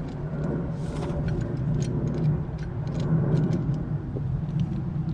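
Light, irregular metallic clicks of an Allen wrench working the screws of a hood latch's pivot assembly, over a steady low hum of a running vehicle.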